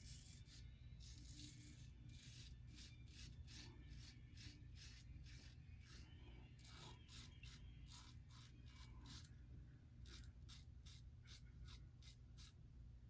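Faint, quick strokes of a double-edge safety razor scraping through stubble, several short strokes a second.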